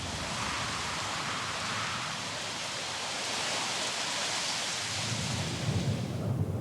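Blizzard wind: a steady hiss that cuts off abruptly near the end, with gusts buffeting the microphone in the last couple of seconds.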